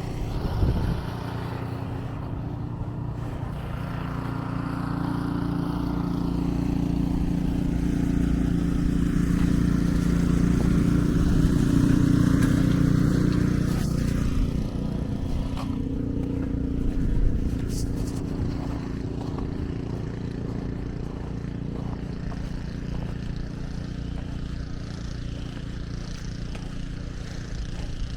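Street traffic: a vehicle's engine running with a steady low hum, growing louder to about twelve seconds in and then fading away. There is a brief sharp click or knock a little later.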